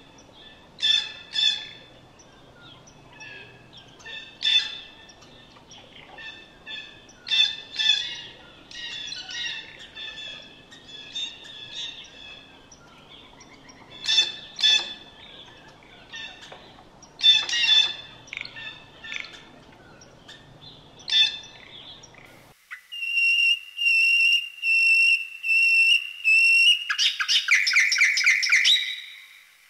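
Bird calls: a long series of short, harsh repeated calls over steady background noise, then, after an abrupt change about 22 seconds in, a clear whistled note repeated several times and a fast trill near the end.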